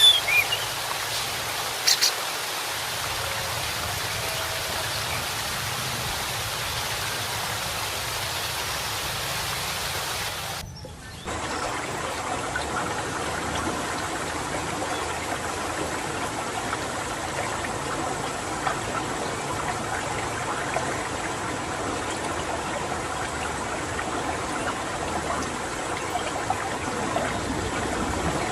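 Steady rush of running water, with a bird's two short chirps in the first couple of seconds. About eleven seconds in the sound dips sharply and changes character, as at a cut, then the water noise carries on.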